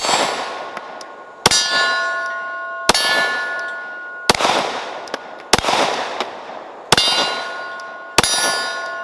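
Seven 9mm shots from a Glock P80 pistol, evenly paced about one every second and a half. Each shot is followed by a steel target's clang, ringing on for about a second.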